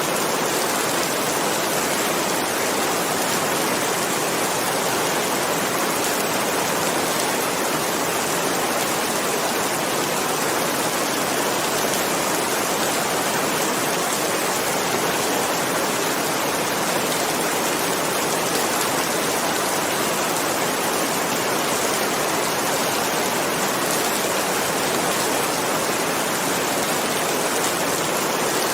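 Steady rain: an even, unbroken hiss of falling water with no thunder.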